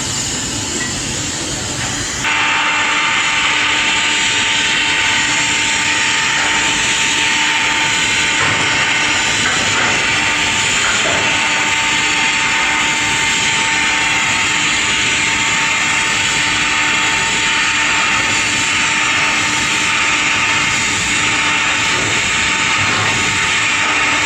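Steady hissing workshop machine noise with a constant tone running through it, stepping up louder about two seconds in and then holding even.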